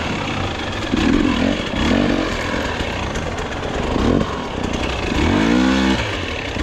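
Dirt bike engine being ridden on a trail, revving in repeated bursts with its pitch rising and falling, including a longer rising rev about five seconds in.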